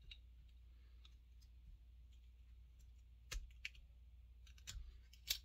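A few faint clicks and light taps of small chainsaw parts being handled while an oil pump is worked onto the crankshaft over a tin-can sleeve. The clicks are scattered, most of them in the last two seconds, over a low steady hum.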